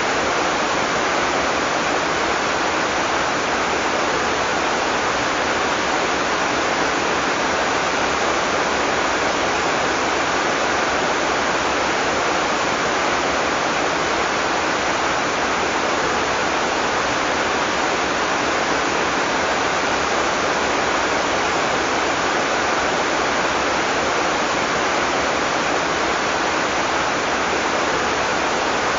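Heavy tropical rain falling steadily, a dense even hiss without thunder or separate drops standing out.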